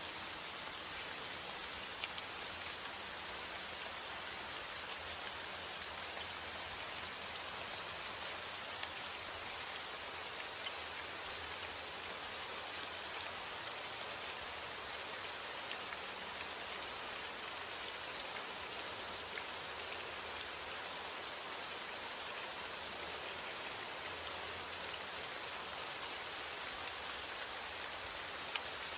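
Steady heavy rain: an even hiss of rainfall with scattered ticks of individual drops striking a surface.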